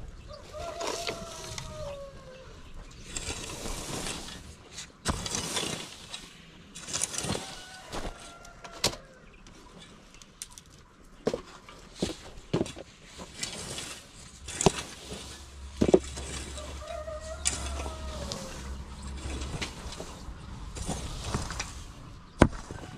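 Chickens calling, with a rooster crowing twice: two long calls that drop in pitch at the end, one at the start and one a little past the middle. Scattered sharp clicks and knocks run through it.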